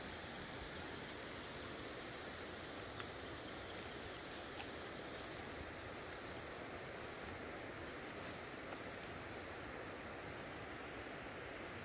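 Outdoor rural ambience: a steady hiss under a continuous high-pitched insect trill that breaks off briefly twice. A sharp click comes about three seconds in, with a few fainter ticks.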